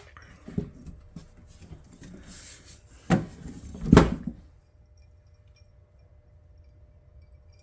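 Handling sounds on a workbench: a few hard knocks and clatter as small parts and tools are picked up and set down, the loudest knock about four seconds in, with light rustling between them.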